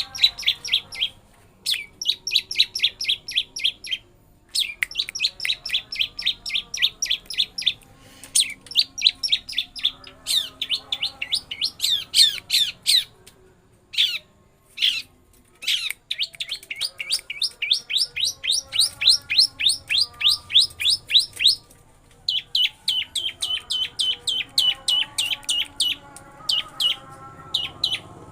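Long-tailed shrike (pentet) singing long, rapid rolling trills of sharp repeated notes, its mimicry of a lovebird's roll, in phrases broken by short pauses.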